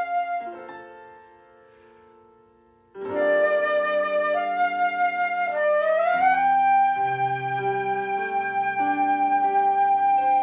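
Instrumental church music: a flute-like melody with a wavering vibrato over sustained keyboard chords. It fades almost to silence about a second in, comes back at about three seconds, and slides up into a long held note.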